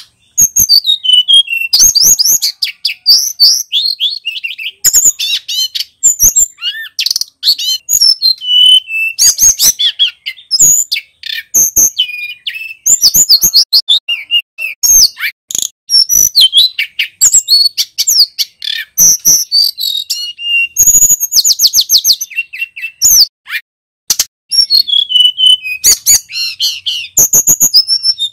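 Male tledekan gunung singing loudly and almost without pause: fast runs of clear, high whistled notes that sweep up and down.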